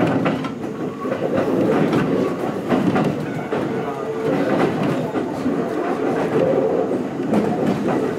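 Kintetsu 1220 series electric train running between stations, heard from inside the car: a steady rumble of running noise with repeated clacks of the wheels over rail joints.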